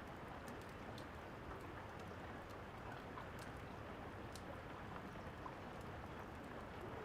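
Steady rain falling, with scattered sharp crackles of a wood fire at irregular intervals.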